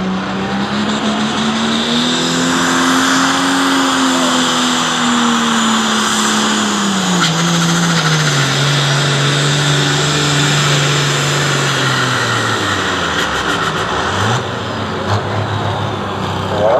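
Pulling tractor's engine running flat out under load as it drags the sled. Its pitch climbs over the first few seconds, then sags steadily as the sled bogs it down. It backs off suddenly about fourteen seconds in, at the end of the pull.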